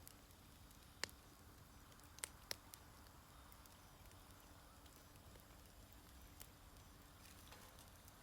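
Wood fire burning quietly: a faint steady hiss with a few sharp crackling pops, the loudest ones about one and two and a half seconds in.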